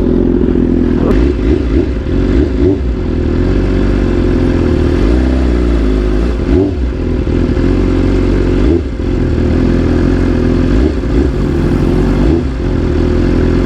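BMW S1000RR motorcycle's inline-four engine running steadily at low revs, with no big revving.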